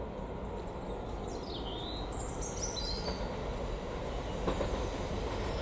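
Distant Class 66 diesel locomotive approaching with a container freight train: a low, steady rumble that slowly grows louder. A bird gives a few falling chirps about a second in.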